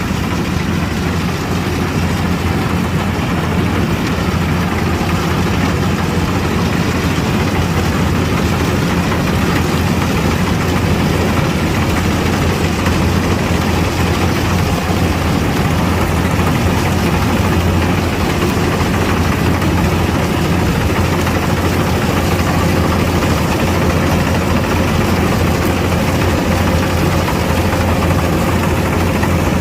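Kubota DC-105X combine harvester's diesel engine running steadily, with a strong low hum.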